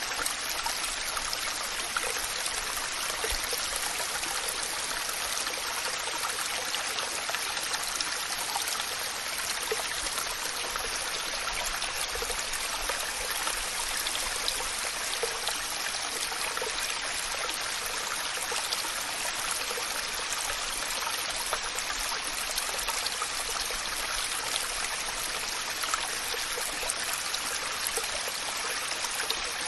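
Waterfall: a steady, even rush of falling water, with small splashes and trickles through it.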